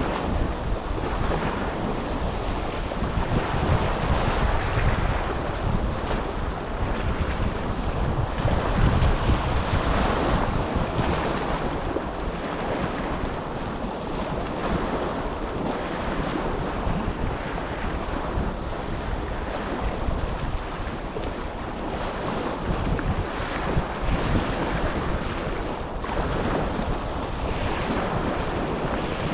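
Small waves breaking and washing on the Dead Sea shore, with wind buffeting the microphone. The surf rises and falls in slow swells, loudest around a third of the way through.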